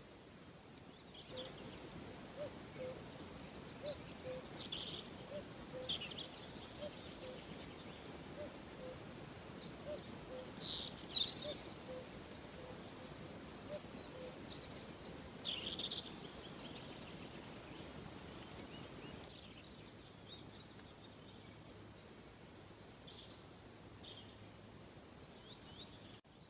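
Faint bird chirps and calls over a quiet outdoor background, with the background growing quieter about two-thirds of the way through.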